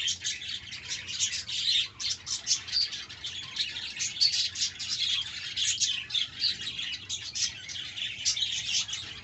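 Budgerigars chirping and chattering, a dense run of short overlapping chirps with no pause.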